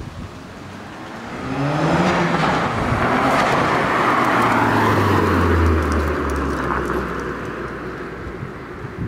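A car accelerating hard away from the meet, its engine note climbing about a second and a half in, loud for several seconds, then dropping in pitch and fading near the end.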